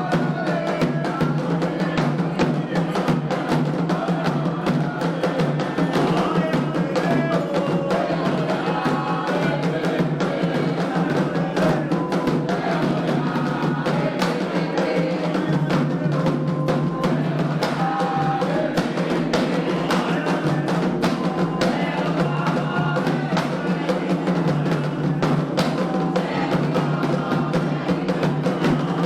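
Candomblé ritual drumming: hand drums struck in a fast, dense rhythm with a sharp wooden or metal beat on top, and voices singing over it.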